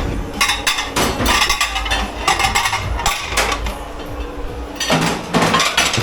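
Dishes, pans and cutlery clattering and knocking together as they are handled and stacked in a dish pit, a run of quick metallic and crockery impacts. It pauses briefly, then comes back in a burst near the end.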